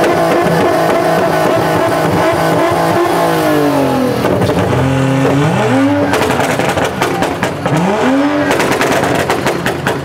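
Car engine revving: held at high revs, dropping back about four seconds in, then three quick rev blips about two seconds apart, each climbing and falling back.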